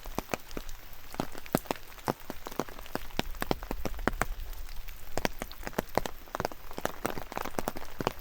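Steady rain, with many separate drops tapping close by at an irregular pace, several a second, over a soft hiss of rainfall.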